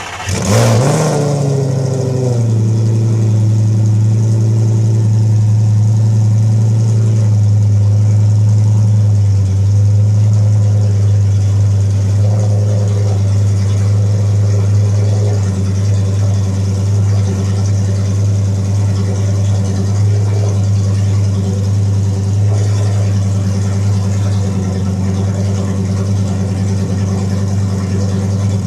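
Lamborghini Gallardo's 5-litre naturally aspirated V10 catching and flaring up in revs for a moment, then settling into a steady, even idle.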